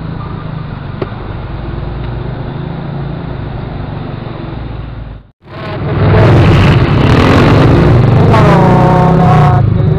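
Motorcycle engine running steadily under way, with road noise. About halfway the sound cuts out for a moment, then returns louder, with heavy wind rush on the microphone and the engine pitch shifting as it accelerates.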